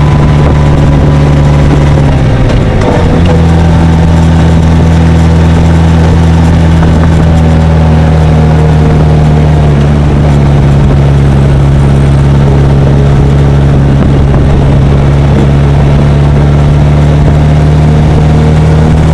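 Motorcycle engine running steadily under way, loud and close to the camera. Its pitch dips briefly about two and a half seconds in, then holds steady again.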